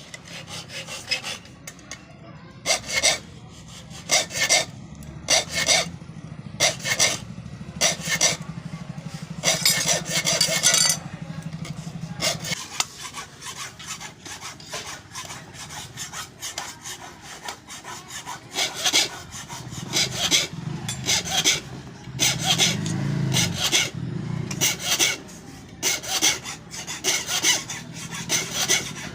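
Metal being filed by hand, likely a sickle blade, in repeated rasping strokes at an irregular pace of roughly one stroke a second.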